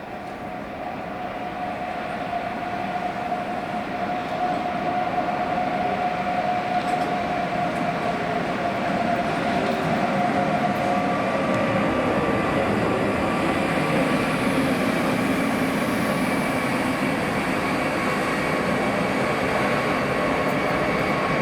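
Train coming up and passing: the rail noise builds over the first few seconds and then stays steady and loud. A steady whine drops in pitch about halfway through as it goes by, and a long run of steady rolling noise follows.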